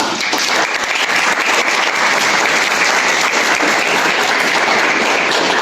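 An audience applauding steadily, starting right after the talk's closing thanks and stopping near the end.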